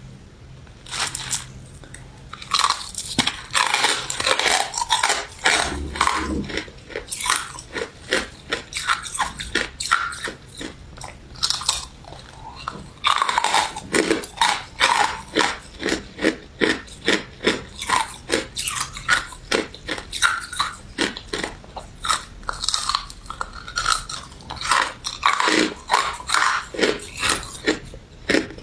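Close-miked chewing of crunchy crystal ice and jelly dessert: a steady run of crisp crunches, about two to three a second, quieter for the first couple of seconds.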